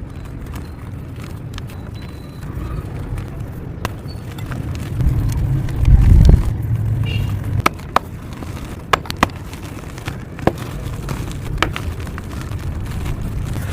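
Dry sandment (sand-cement) lumps being crushed and crumbled: a low, dusty crunching rumble that is heaviest about halfway through, then several sharp cracks as pieces snap apart.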